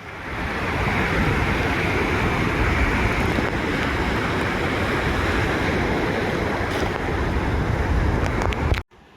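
Ocean surf washing on a beach, a steady rushing that swells in over the first second and cuts off abruptly near the end.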